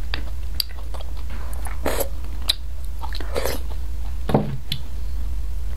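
Close-miked chewing and wet lip smacks on spicy beef bone marrow, with scattered short clicks.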